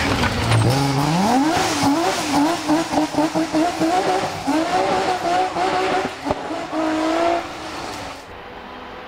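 Rally car engine driven hard: it revs up, then rises and falls rapidly again and again as the throttle is worked through a stage section, then fades away. The audio cuts to a quieter scene near the end.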